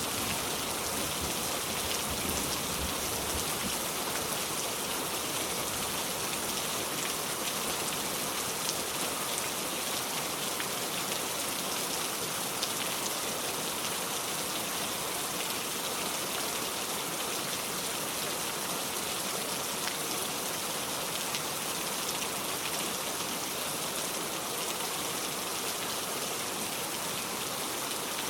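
Heavy rain falling steadily on a metal roof, a dense even hiss with scattered drop ticks. The last of a low thunder rumble fades out right at the start.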